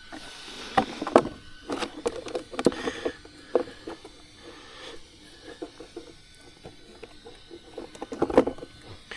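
Handling noise as the RC truck and its parts are worked on by hand: irregular clicks, taps and knocks of plastic, with a few louder knocks about a second in and near the end.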